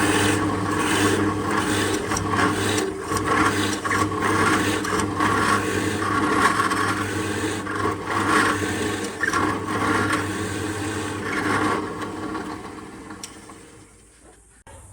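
Electric power tool running against wood: a steady motor hum under a rough sanding or scraping sound. It winds down over the last few seconds.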